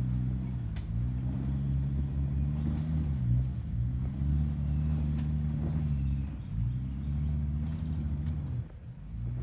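4WD engine running under load at low speed, its note dipping and picking up again several times, about every three seconds, with a few faint knocks; the engine sound drops away briefly near the end.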